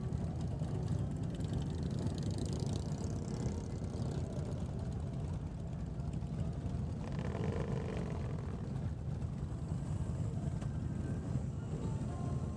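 Many cruiser motorcycles idling and rolling slowly together in a packed group ride, making a steady, dense, low engine rumble.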